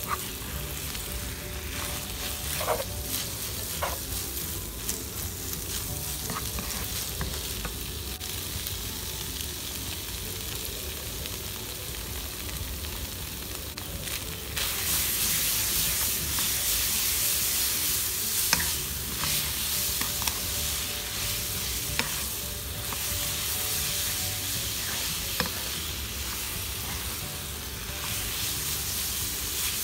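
Instant noodles and tofu sizzling in a non-stick pan while a wooden spatula stirs and scrapes them, with scattered sharp taps of the spatula on the pan. The sizzle grows louder about halfway through.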